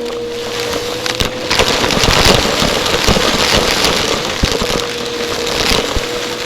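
Vacuum cleaner running with a steady motor whine; from about a second and a half in it turns into a louder rushing noise full of crackles and clicks, like grit rattling up into it, and the whine returns near the end.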